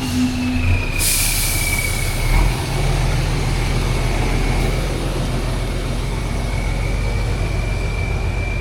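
Heavy off-road competition truck's diesel engine running steadily under load, with a thin high whine over the low rumble. A hiss starts abruptly about a second in.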